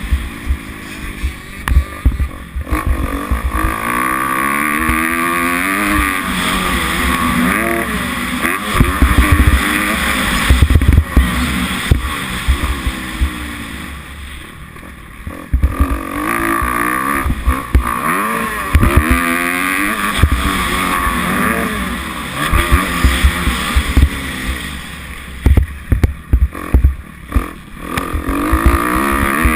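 Kawasaki 250F four-stroke single-cylinder motocross engine revving up and down again and again as the bike is ridden round the track. Repeated low thumps run through it.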